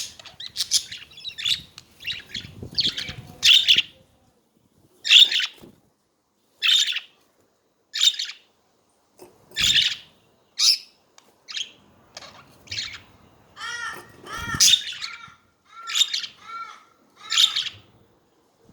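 Pet budgerigars chattering: a string of short, sharp high chirps, about one or two a second, with more ringing, warbled calls in the second half. Two brief low thumps are also heard, one in the middle and one a few seconds later.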